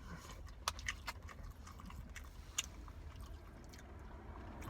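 A person chewing a mouthful of chicken biryani, faint wet mouth sounds with a few sharp clicks, the clearest about three quarters of a second and two and a half seconds in.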